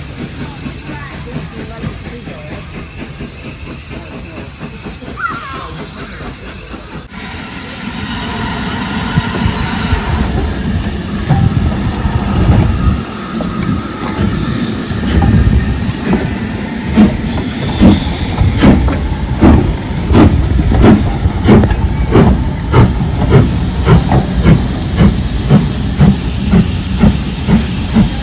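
Steam locomotive getting under way. After a quieter start a loud hiss of steam begins suddenly, then exhaust beats build into a steady chuffing, about one and a half to two a second.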